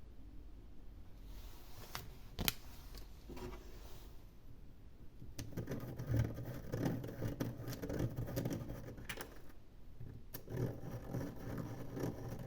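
Hands unwrapping and handling a chocolate surprise egg: a couple of sharp clicks about two seconds in, then crinkling and rustling of the wrapping in two spells.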